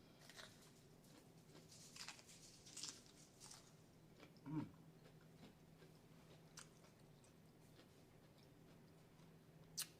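Faint chewing and mouth sounds of a person eating up close, with soft scattered clicks and smacks. A brief low throat sound about four and a half seconds in and a sharp click near the end; a low steady hum underneath.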